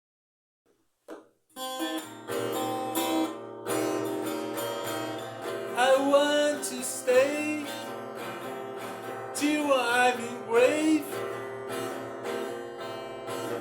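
Acoustic guitar starts about a second and a half in and plays steadily, strummed and picked. From about six seconds in a solo voice sings over it in two short phrases.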